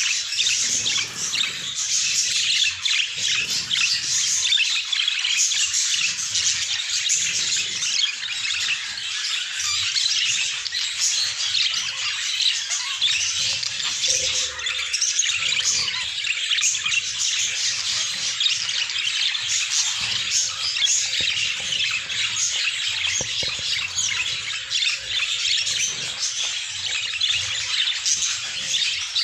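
A group of budgerigars chattering and squawking without pause, many chirps and harsh calls overlapping.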